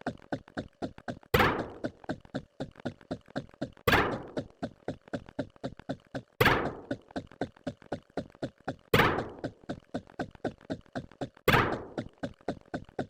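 A repeating loop of sound effects: a loud thunk about every two and a half seconds, five in all, with a quick run of smaller clicks at about four a second between them.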